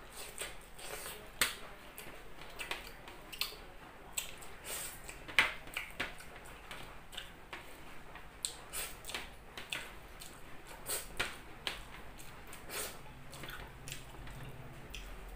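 A person eating rice and grilled eggplant omelette by hand, chewing with wet smacks and clicks of the mouth that come irregularly, several a second at times.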